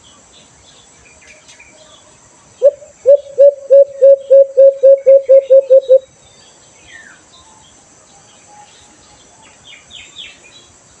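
An alimokon dove calling close by: a loud series of about a dozen low hoots that come faster and faster over some three seconds, then stop. Faint chirps of small birds are heard around it.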